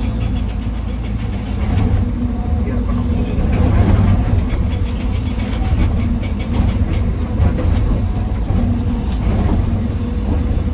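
Heavy diesel machinery of an excavator loading andesite rock into a dump truck, running with a steady low rumble and scattered knocks and clicks.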